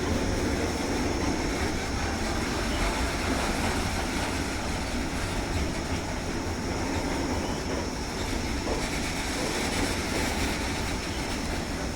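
Goods train of coal hopper wagons rolling past on Indian Railways track, a steady rumble of wheels on rails.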